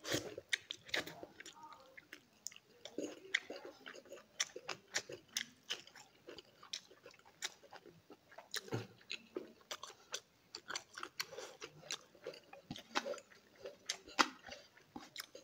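A person chewing a mouthful of stone fish curry eaten by hand, with many quick, irregular mouth clicks.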